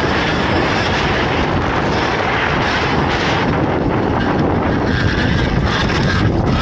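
Alta Redshift MXR electric motocross bike being ridden. What is heard is a steady rush of wind on the microphone and riding noise, with no engine note.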